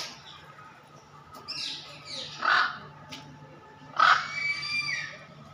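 Bird calls: two harsh calls, one about two and a half seconds in and one starting about four seconds in.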